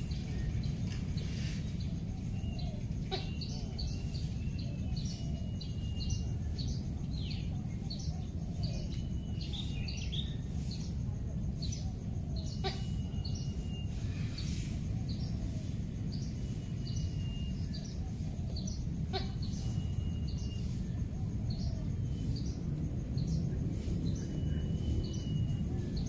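Wild birds chirping in many short, quick notes, now and then a level whistle about a second long, over a steady low rumble of outdoor background noise.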